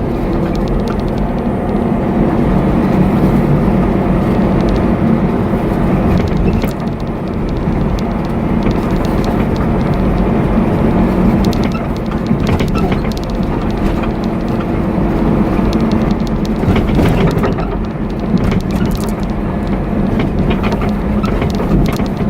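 Truck engine running and road noise while driving: a steady drone whose engine note shifts a few times.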